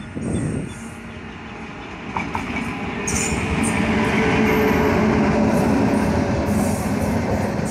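WAP7 electric locomotive hauling an express train past at speed: the rumble of its wheels on the rails grows louder as it approaches and holds steady and loud from about three seconds in as the locomotive and coaches go by close.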